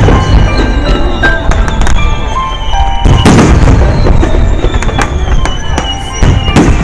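Aerial firework shells bursting with deep booms about every three seconds, three in all, with scattered crackling pops between them. Music plays underneath.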